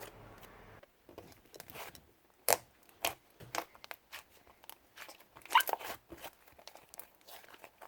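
Slime being squeezed and pressed by hand, giving irregular crackling pops and crunches, the loudest about two and a half seconds in and again a little past halfway.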